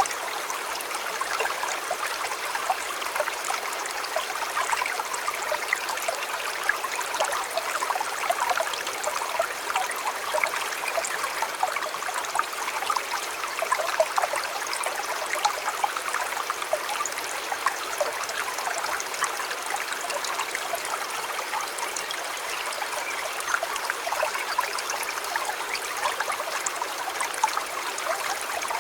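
A shallow river or stream running steadily, a continuous rush with many small splashes and gurgles.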